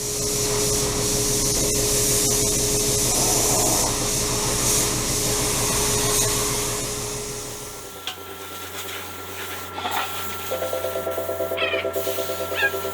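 A power tool running with a steady hum and a strong hiss, dropping away about eight seconds in to quieter, rhythmic rubbing.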